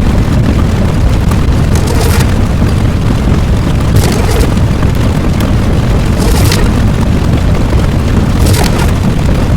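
Loud, continuous low rumble of an explosion-type sound effect, with a short hissing burst about every two seconds.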